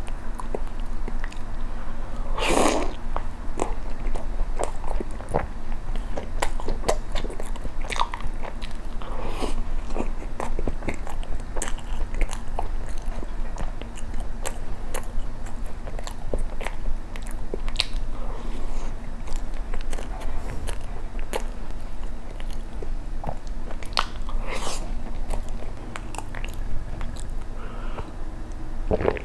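Close-miked mouth sounds of eating bread: biting and chewing with many small wet clicks, and a louder crunchy bite about two and a half seconds in and another about twenty-four seconds in. A gulp of milk comes near the end.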